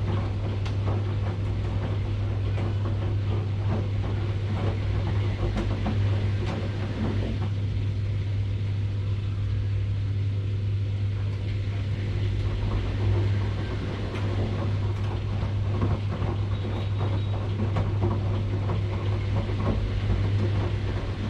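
Washing machine running: a steady low hum under an even rushing noise, with faint small knocks and rattles scattered through it.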